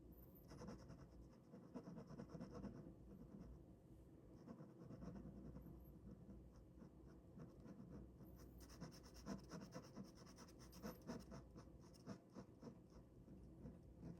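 Ballpoint pen drawing on paper, faint: a run of quick, short scratchy strokes from about half a second in, a pause, then a denser run of rapid strokes from about 8 seconds in, trailing off into scattered single strokes.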